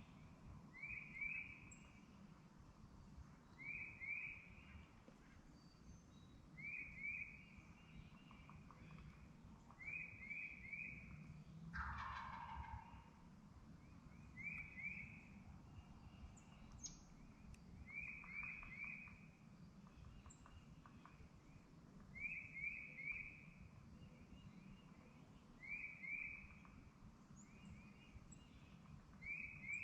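A wild turkey tom gobbling hard, faint and repeated.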